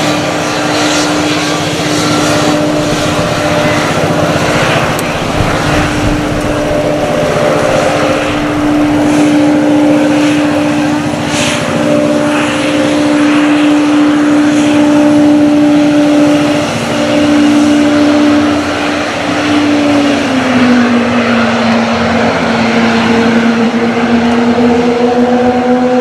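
Airbus A320neo's Pratt & Whitney geared turbofan engines running, a loud steady jet whine with a steady hum under it. The pitch drops about three-quarters of the way through.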